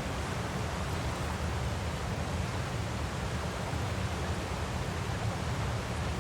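Waterfall sound: a steady, unbroken rush of falling water, heaviest in the low end.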